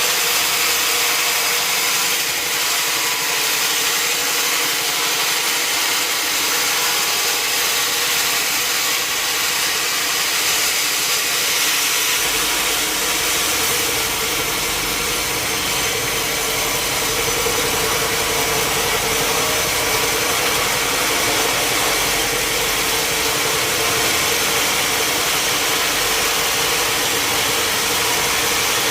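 Sawmill machinery running steadily, a constant loud mechanical noise, with a low rumble coming in a little under halfway through.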